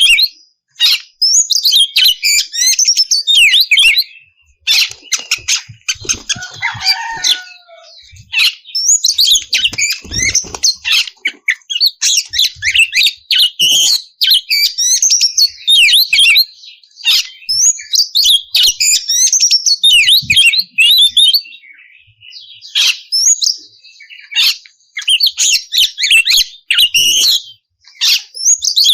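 Oriental magpie-robin (kacer) singing loudly and continuously: long runs of rapid, varied whistles and chattering phrases, with a few short pauses between runs.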